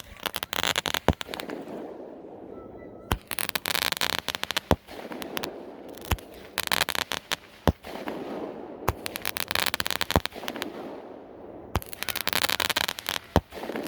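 A consumer firework cake firing shot after shot, about one every one and a half seconds. Each shot is a sharp thump followed by a dense crackling burst.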